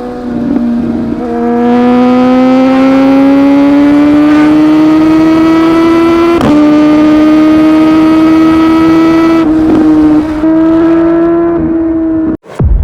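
Inline-four superbike engine under hard acceleration at high revs, its note climbing steadily, with a quick break for an upshift about six and a half seconds in, then holding steady before easing off near the end.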